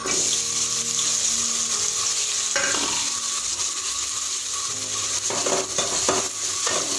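Garlic, dried red chillies, onion, tomato and curry leaves hitting hot oil in an aluminium kadai and sizzling at once, with a steady hiss. A metal spatula stirs them, scraping against the pan, mostly in the second half.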